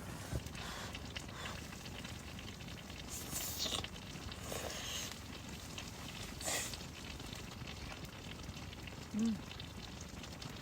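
Pork-neck kimchi stew simmering in a pan over a camping gas stove: a steady sizzling, crackling hiss. A few brief louder noises come through it, and a short hummed voice sounds near the end.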